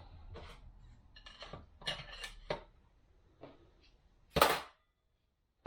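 Metal tools clinking and knocking against transmission parts as an old bearing is worked out, with one loud metallic clank about four and a half seconds in.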